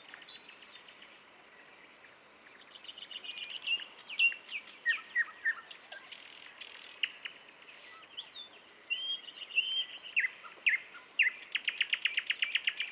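Nightingale singing: varied phrases of whistles, slurred notes and clicks, with a fast run of repeated notes at about ten a second near the end.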